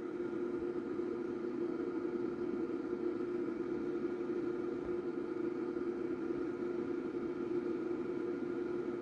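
Cooling fan of a Crown XLS1000 power amplifier running at full speed: a steady hum with a strong low tone and a fainter higher whine over air noise.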